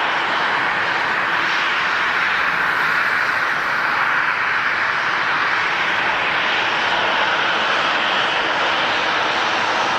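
Airliner engines running: a steady, loud noise with slow swells in level.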